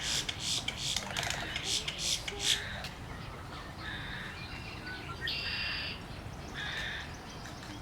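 Birds in a nesting colony calling: a fast run of harsh, chattering calls, then several separate, longer calls. The loudest of these comes about five seconds in.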